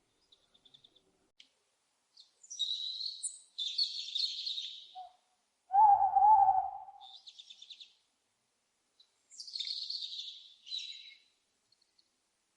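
Owls calling: harsh, raspy high-pitched screeches about two seconds in and again near the end, with short rapid chattering between them. Midway comes the loudest call, a single lower, wavering hoot-like note lasting about a second.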